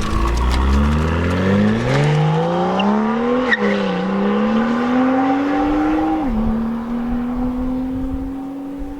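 BMW M2's turbocharged 3-litre inline-six with an M Performance exhaust accelerating hard, rising in pitch through the revs. A quick upshift of the dual-clutch gearbox comes with a sharp crack about three and a half seconds in, and a second one at about six seconds. After that the engine holds a steady note that slowly gets quieter.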